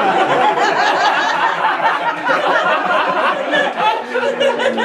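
Live audience laughing, many voices together.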